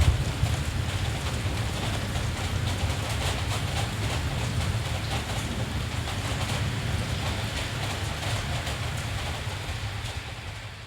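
Steady rain with a low rumble beneath it, fading down near the end.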